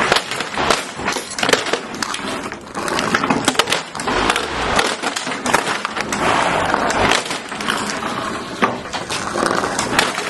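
A lawnmower chewing up plastic toys: a steady noisy rush broken by many sharp cracks and clatters as pieces are crushed and thrown.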